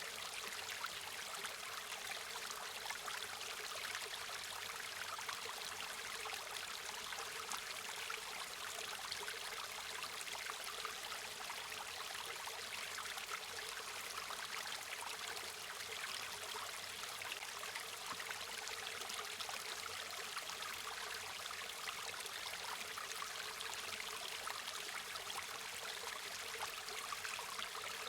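River water flowing over stones, a steady rushing and babbling hiss that stays even throughout.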